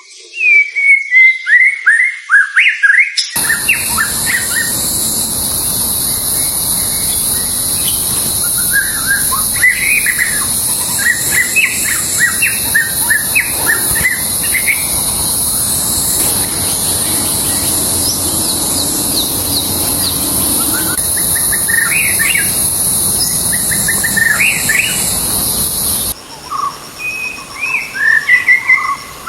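White-rumped shama (murai batu) singing a varied run of quick whistled and chirped phrases. From about three seconds in until near the end, a steady high hiss runs behind the song.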